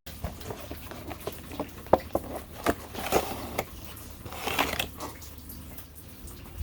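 Rain dripping, with scattered irregular drips and taps and a couple of short rustling swishes.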